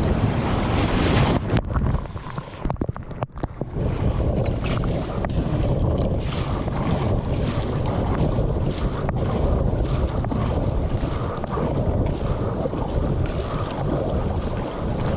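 Wind buffeting the microphone over breaking surf and water washing around a kayak, dropping out briefly about three seconds in.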